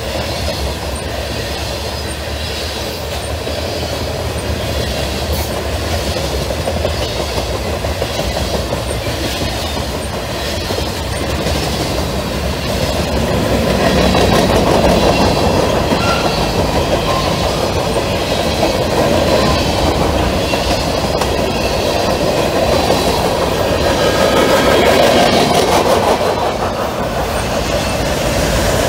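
Freight cars of a fast Norfolk Southern mixed freight train rolling past: a steady loud rumble and clatter of steel wheels on the rails, growing louder about halfway through.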